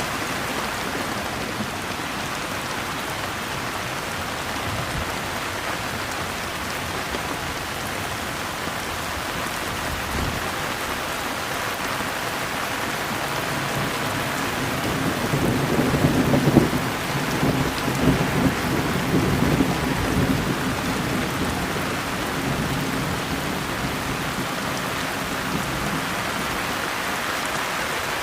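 Steady, heavy rain falling, with a low rumble of thunder rolling in about halfway through and lasting several seconds before fading back into the rain.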